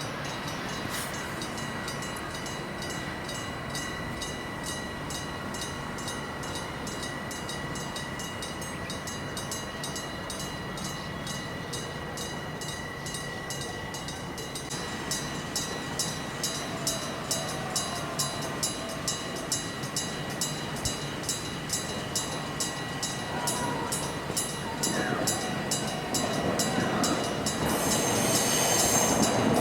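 Trackside sound of a train approaching on the rails, getting clearly louder near the end. Under it runs a fast, even ringing of about two to three strokes a second, with steady high tones.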